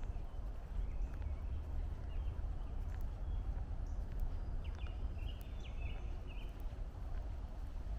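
Small birds chirping in short, scattered calls over a steady low rumble of distant highway and city traffic.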